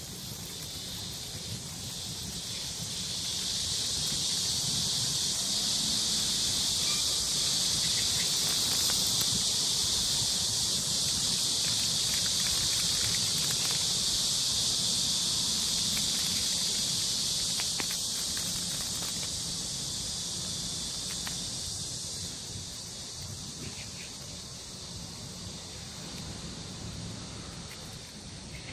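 Cicada song: a loud, shrill, continuous buzz that swells over the first few seconds, holds steady and then fades after about twenty seconds.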